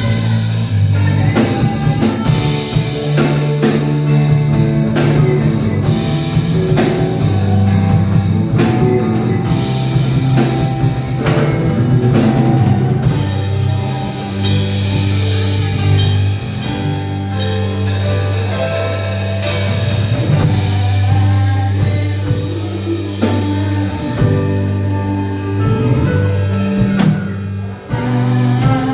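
Band music with drum kit, bass and guitar playing a steady beat, with singing, in the style of gospel worship music.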